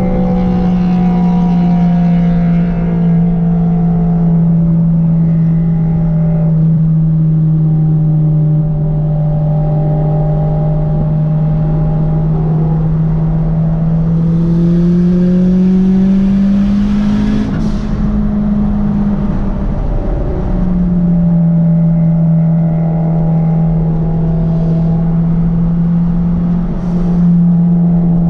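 Honda four-cylinder car engine running at a steady pitch while driving, rising slightly for a few seconds just past halfway and settling back down around twenty seconds in.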